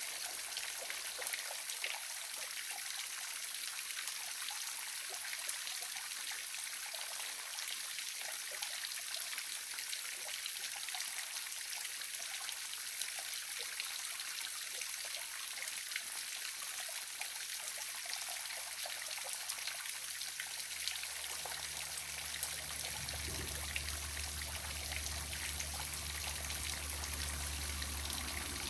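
Waterfall, water splashing and trickling steadily with no break.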